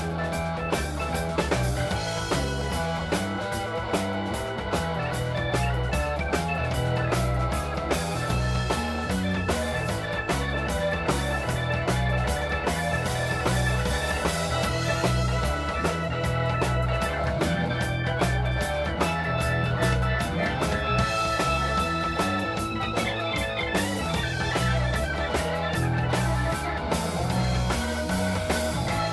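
Live rock band playing an instrumental passage: guitar, keyboard, bass and drum kit over a steady beat.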